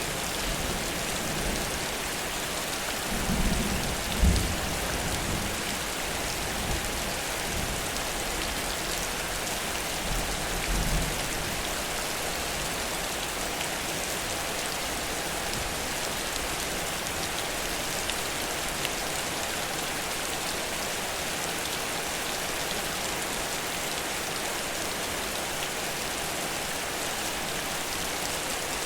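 Heavy rain falling steadily in a continuous hiss. Two brief low rumbles rise over it, about three to four seconds in and about ten to eleven seconds in.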